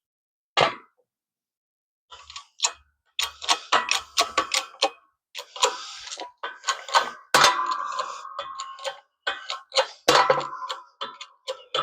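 Cheap hand-pumped press being worked to press a U-joint bearing cap in: irregular metallic clicks and short squeaky creaks with each pump stroke, with a pause about a second in.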